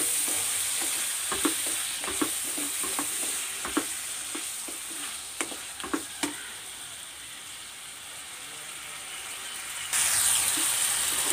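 Chopped tomatoes and onions sizzling in hot oil in a kadai while a wooden spatula stirs them, with scattered short knocks and scrapes of the spatula against the pan. The sizzle eases off past the middle and comes back louder suddenly near the end.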